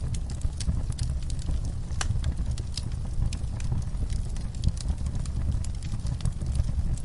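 Wood fire burning in a fireplace: a steady low rumble with frequent, irregular sharp crackles and pops from the burning logs.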